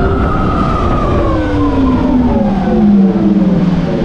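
Electric motorcycle's motor whine falling steadily in pitch as the bike slows, breaking into short stepped pulses near the end, over low wind rush.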